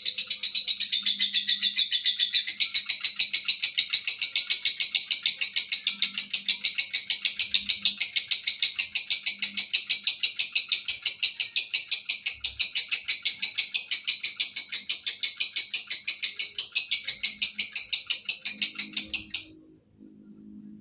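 Lovebird singing its long 'ngekek' song: one unbroken, rapid run of shrill repeated chattering notes that lasts about twenty seconds and stops abruptly near the end.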